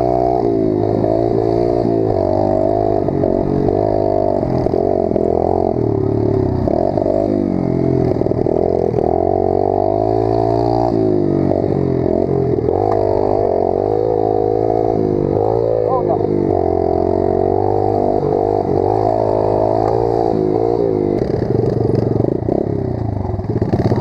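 Pit bike engine being ridden, its pitch rising and falling over and over with the throttle, on and off the gas.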